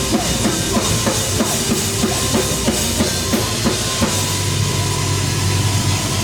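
Live band's drum kit playing a steady beat over bass and keys, about three hits a second; the drums stop about four seconds in, leaving a held low note ringing.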